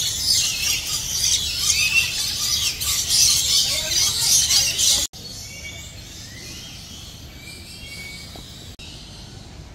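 A flock of birds chirping and squawking loudly in a dense chatter for about five seconds, then, after a sudden cut, a quieter scene with a few scattered bird calls.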